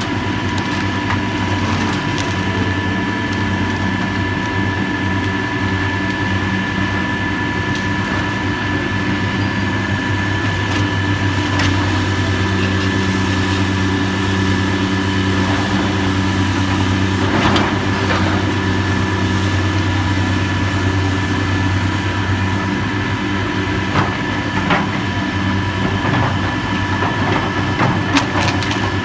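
Heavy demolition machinery's engine running steadily with a constant whine, with a few short knocks of debris near the end.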